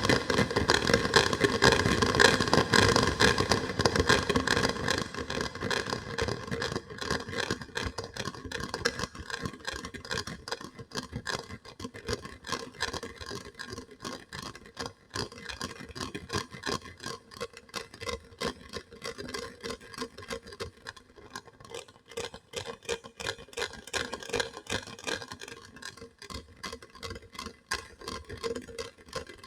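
Close-miked ASMR trigger sounds: rapid, irregular tapping and scratching on an object, louder over the first few seconds and softer after.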